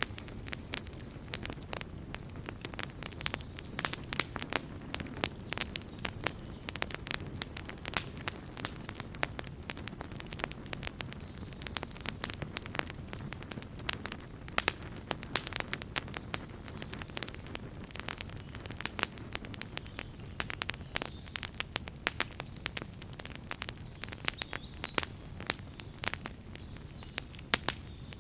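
Wood bonfire burning, crackling and popping: a dense, irregular stream of sharp crackles, several a second, over the low steady rush of the flames.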